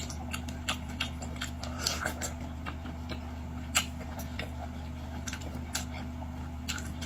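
Eating sounds: chewing, with scattered irregular small clicks, over a steady low hum.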